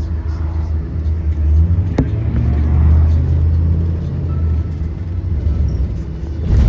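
A 2023 Blue Bird Vision school bus running with a steady low rumble. There is a sharp click about two seconds in.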